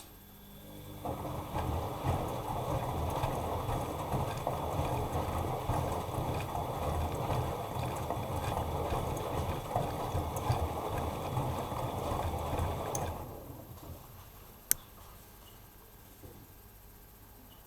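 Bosch Maxx Advantage WFCX2440 slimline washing machine drum turning in the wash cycle, tumbling the wet load with a low rumble and small knocks for about twelve seconds before stopping. A single sharp click follows shortly after.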